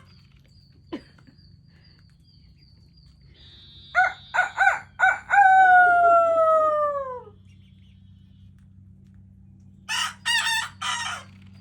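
Young Sebright bantam rooster crowing: a few short notes, then one long falling note, the unpractised crow of a cockerel still learning. Three short chicken calls follow near the end.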